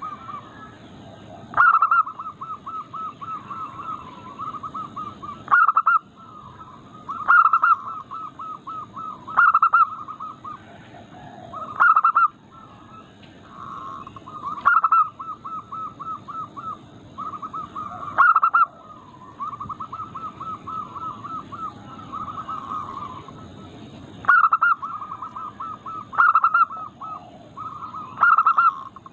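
Zebra dove (perkutut) cooing: loud staccato phrases every two to three seconds, with quieter runs of rapid, evenly spaced cooing notes at the same pitch in between.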